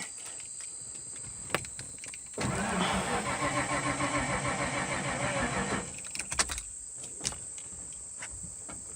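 Ford mud truck's engine cranking on the starter for about three and a half seconds with an even, fast pulsing, then stopping abruptly without the engine catching. A few light clicks come before and after.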